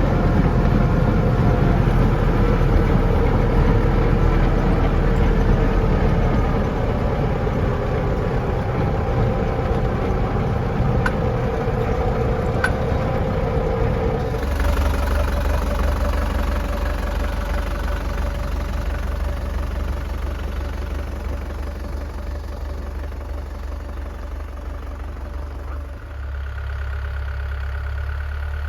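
Lovol tractor engine running steadily, with a higher steady whine over it at first. About halfway the whine drops away and a deeper, steady engine drone remains, changing again near the end.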